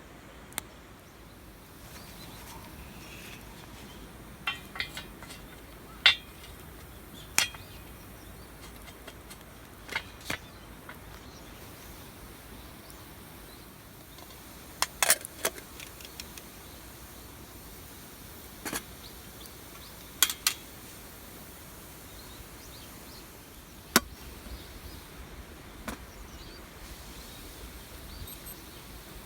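A dozen or so sharp clicks and knocks at irregular intervals, some in quick pairs, over a faint steady outdoor background.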